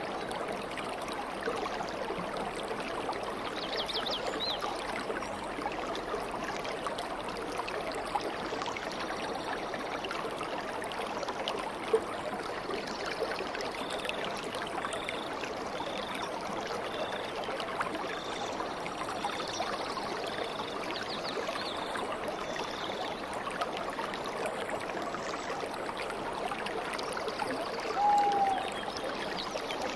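A stream flowing and trickling steadily, with birds calling over it. There is a short burst of high chirps about four seconds in and a run of short high notes, about one a second, through the middle. Near the end comes a single lower, slightly falling call. A single sharp click about twelve seconds in is the loudest moment.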